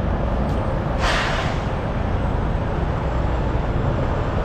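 Steady low rumble of idling diesel truck engines, with a short burst of hissing air about a second in that fades away within half a second.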